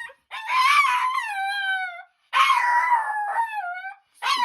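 Dog howling in two long, drawn-out calls, each wavering and then sliding down in pitch at its end.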